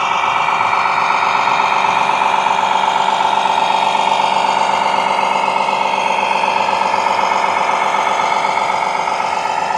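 Radio-controlled model truck running steadily, a continuous mechanical whine that comes in suddenly at the start.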